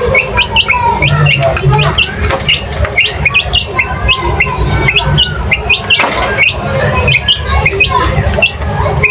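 Many birds chirping and squawking together, a busy flock with short, rapid calls overlapping throughout.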